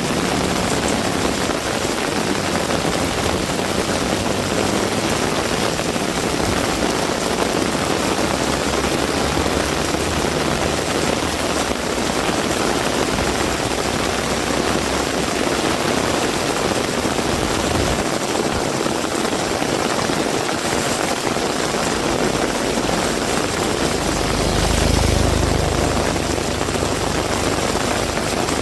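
Heavy rain falling, a steady loud hiss, with a vehicle engine humming low under it for the first half. A low rumble swells briefly near the end.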